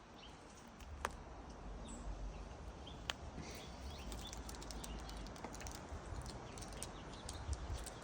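Wind buffeting the microphone, a low rumble that picks up about a second in and goes on, with scattered light clicks and snaps over it.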